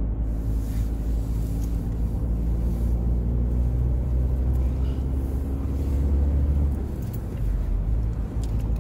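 Car engine and road noise heard from inside the moving car: a steady low drone, dipping briefly about seven seconds in.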